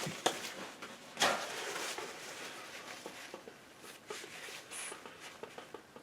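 A painting knife scraping and tapping against the canvas and palette: a few sharp taps, a longer scrape a little over a second in, then faint light ticks.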